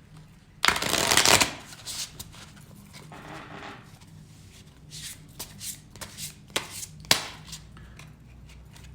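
A deck of playing cards being shuffled by hand: a loud burst of shuffling lasting under a second, about a second in. It is followed by quieter card handling with scattered clicks and one sharp snap near the end.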